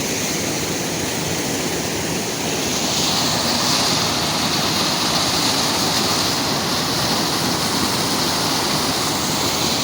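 Steady rush of flowing stream water, getting a little louder about three seconds in.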